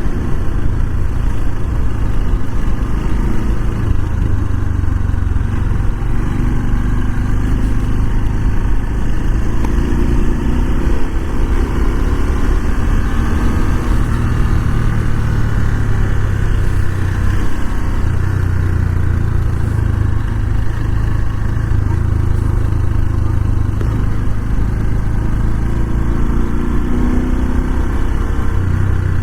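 Honda Super Cub 125's small single-cylinder four-stroke engine and exhaust running steadily, its pitch rising and falling a little.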